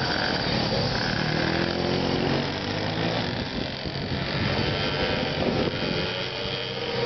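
Small single-cylinder four-stroke 150 cc pit bike engine running under way, its note rising and falling as the throttle is opened and eased.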